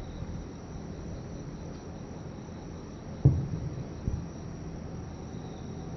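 Distant aerial firework shells bursting: one loud low boom about three seconds in that rolls away, and a smaller thump just under a second later. Insects trill steadily throughout.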